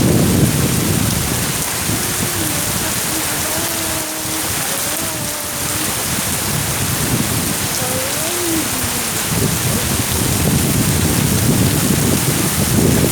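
Heavy rain pouring steadily, with a heavier low rumble near the start and again from about nine seconds in.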